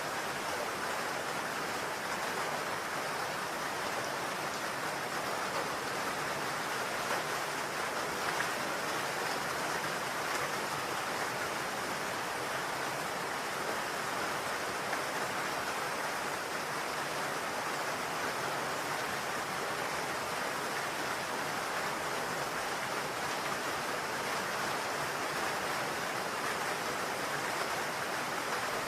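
Steady rain falling on a roof, an even hiss of many drops without a break.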